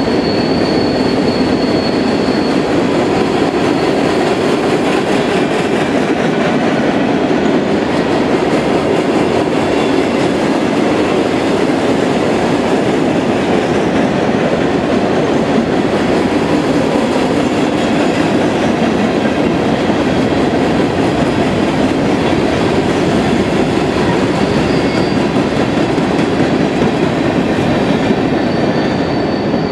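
Empty open-hopper coal cars rolling past on steel rails: a steady, loud rumble and rattle of wheels and empty car bodies. A thin, high wheel squeal sounds at the start and again near the end, and the noise begins to fade as the last car goes by.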